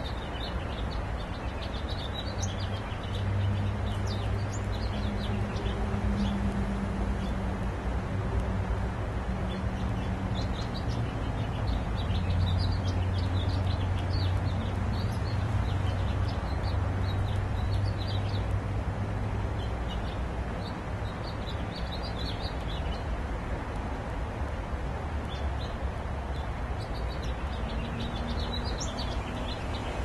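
Small birds chirping on and off, short high calls scattered throughout, over a steady low hum that is louder from about three seconds in and eases after about twenty seconds.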